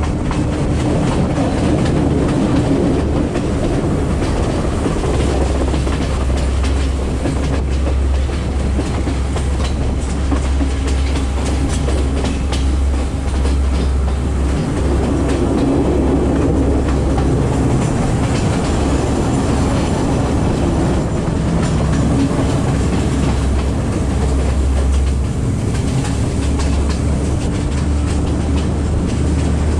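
Sri Lanka Railways S14 class diesel multiple unit running at speed, heard through an open carriage window: a steady rumbling drone with the wheels clicking over the rail joints.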